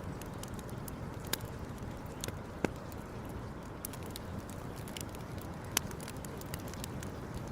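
Wood campfire crackling, with irregular sharp pops (the loudest about a second, two and a half seconds and nearly six seconds in) over a steady low rumble.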